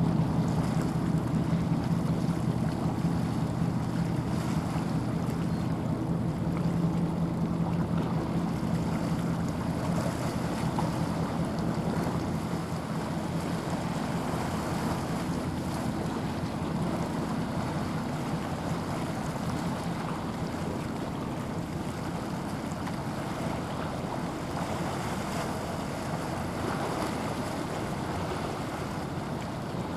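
A passing ship's engine hums low and steady over the wash of water and wind buffeting the microphone. The hum fades gradually through the second half as the vessel moves away.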